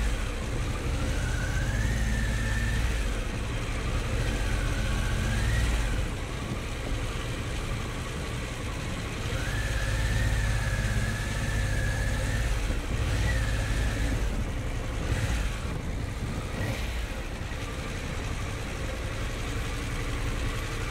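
Harley-Davidson Pan America Special's 1250 cc V-twin running while riding, louder for the first few seconds and again around the middle, easing off toward the end. A faint wavering high tone comes and goes over it.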